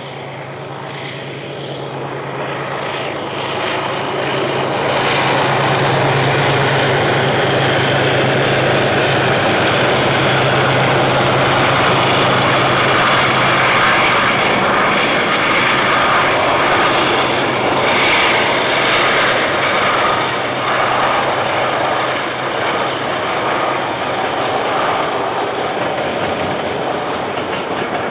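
KiwiRail diesel freight locomotive passing with its train, the engine a steady low drone that builds over the first few seconds. After that the rolling rumble of the wagons carries on.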